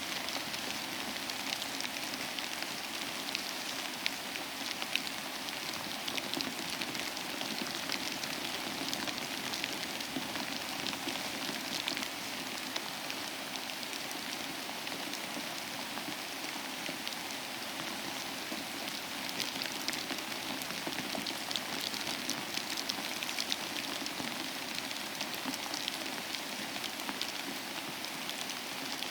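Steady rain falling, a constant hiss dense with the ticks of individual drops striking a surface.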